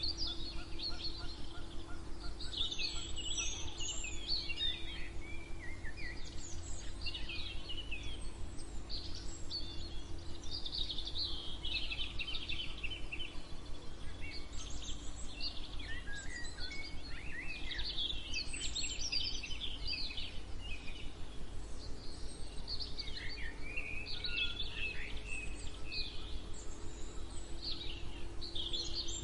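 Several songbirds singing, with many short, overlapping chirping phrases in quick succession, over a steady low hum and rumble.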